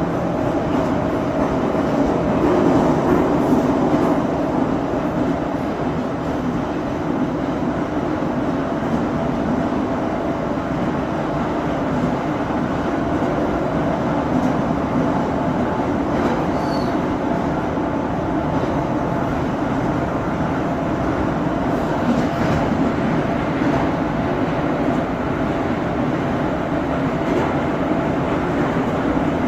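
Moscow Metro 81-717.5M/81-714.5M 'Nomernoy' train running at a steady speed through a tunnel: an even rumble of wheels on rail with a steady motor hum, heard from inside the car.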